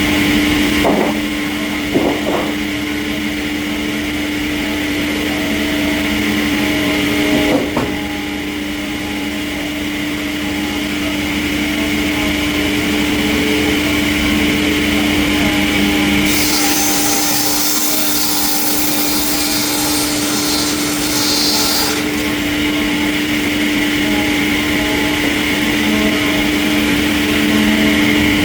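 Industrial sawmill machinery running with a steady, loud hum. There are short knocks about one, two and eight seconds in, and a sharp high hiss that sets in a little past the middle and stops again several seconds later.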